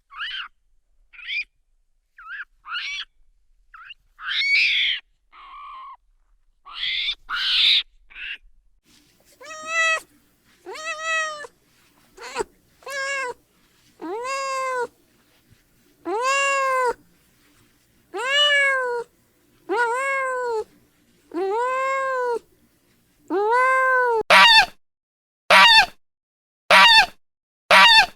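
A cat meowing over and over, each meow rising and then falling in pitch, about one every second and a half. The meows get shorter and louder near the end. They follow several seconds of short, high squeaky calls.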